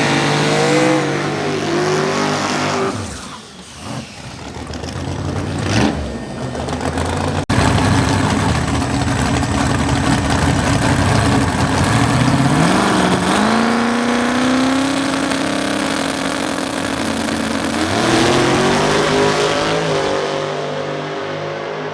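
Drag race car engines revving and accelerating hard, the engine note climbing in pitch several times, with a brief drop in level about three seconds in.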